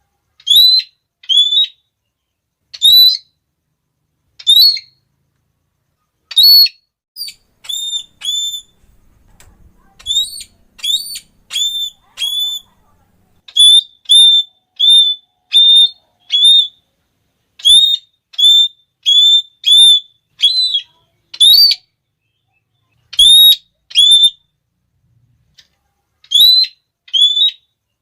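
Red-cheeked parrot repeating its shrill 'klee' call: short, upward-hooked notes, some given singly and others in quick runs of three or four, with a few softer notes between them.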